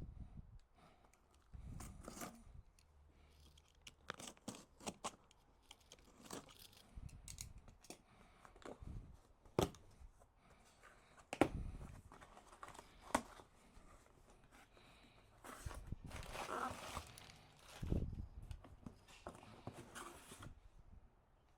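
Hands handling parts and packaging: scattered sharp clicks and knocks, with several bouts of rustling and crinkling.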